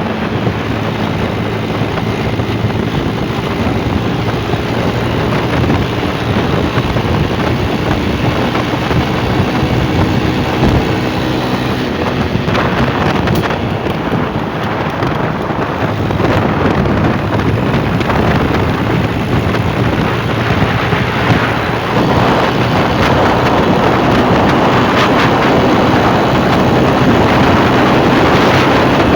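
Motorcycle engine running steadily under way, with heavy wind noise on the microphone.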